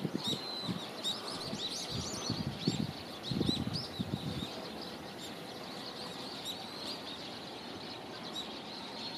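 Small birds chirping repeatedly in quick, short calls, with a few brief low rumbling bursts in the first half.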